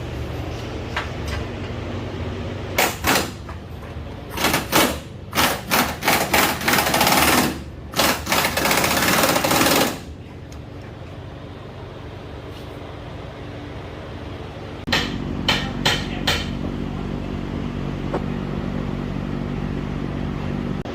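Pneumatic impact wrench firing in short bursts, then a longer run of a couple of seconds, and a few more short bursts later, over a steady machine hum in the shop.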